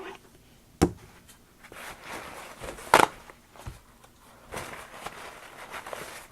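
Handling noises on a work table: two sharp knocks, one about a second in and a louder one about three seconds in, with light rustling and small taps between them.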